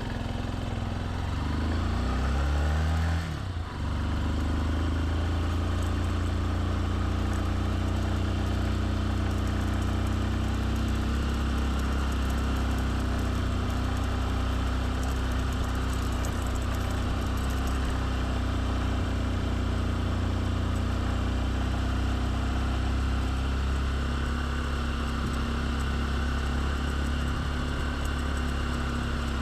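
Motorbike engine rising in pitch as it pulls away, with a short drop about three and a half seconds in, then running steadily at an even speed.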